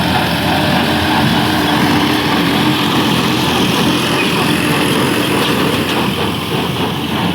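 Massey Ferguson tractor and square baler running: a steady, loud engine drone with the baler's machinery working.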